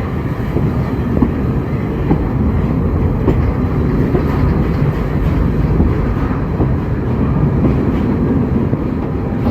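Heritage railway carriage running along the line, a steady rumble of wheels on rail with scattered clicks, heard from aboard the moving train.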